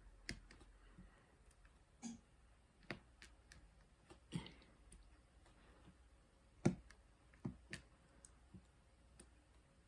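Irregular light clicks and taps of diamond-painting work: a drill pen pressing resin drills onto the canvas, with the loudest tap about two-thirds of the way through.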